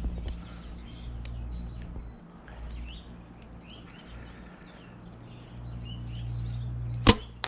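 Small birds chirping in the background, then an Oneida Phoenix bow is shot with one loud, sharp snap near the end, followed a moment later by a fainter knock.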